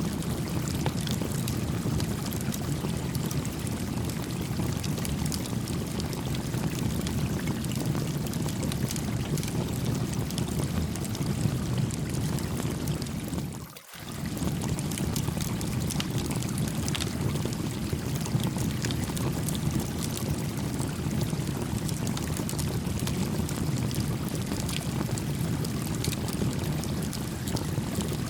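A brook flowing steadily, with a small campfire crackling in scattered light pops. The sound drops out for a moment about halfway through.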